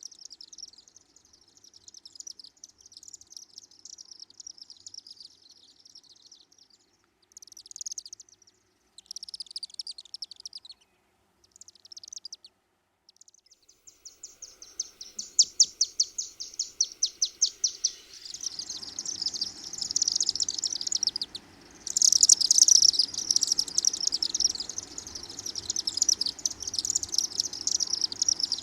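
Chimney swifts chittering overhead, high rapid twittering in broken bursts that grows louder and nearly continuous in the second half. About two-thirds of the way through, a low steady rumble joins underneath.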